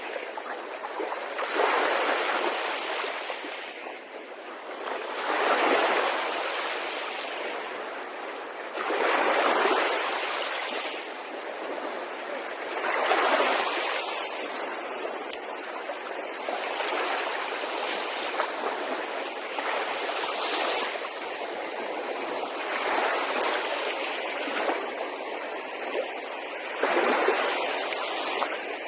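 Sea waves washing onto the shore. A louder surge rolls in every three to four seconds over a steady wash.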